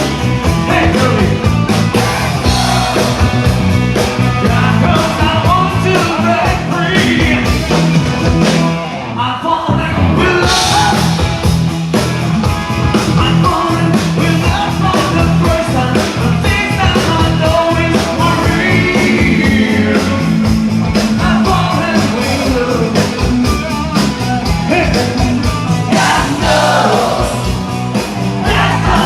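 Live rock band playing loudly, with sung vocals over drums, bass and guitar.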